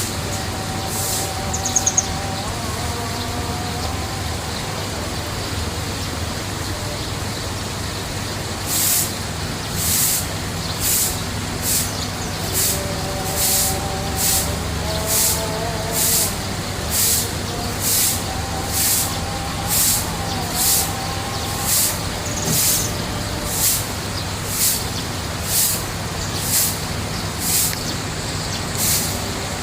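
Steady rushing outdoor background with a low hum, the kind a koi pond's running water and pump give. From about nine seconds in, a high chirp repeats evenly about one and a half times a second, with wavering lower calls now and then.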